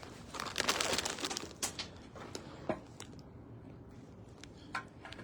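Rustling and crinkling for about a second, then a few light clicks and knocks: objects being rummaged through and handled.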